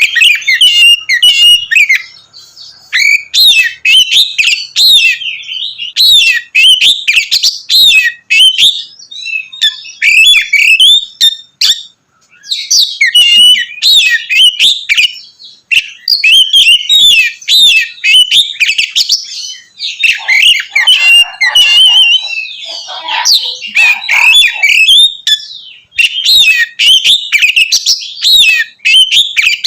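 Oriental magpie-robin (kacer) singing loudly and continuously in rapid, varied phrases of clear whistles and chattering notes, with a few brief pauses between runs.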